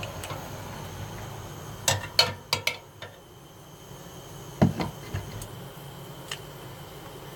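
Hard knocks and clinks of equipment being handled while bees are raked off into a swarm box: four quick sharp knocks about two seconds in, then one heavier knock near the middle.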